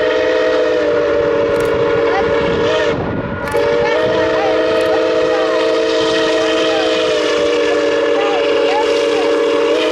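Milwaukee Road 261 steam locomotive's chime whistle blowing a long, loud blast, breaking off briefly about three seconds in, then a second long blast that stops near the end.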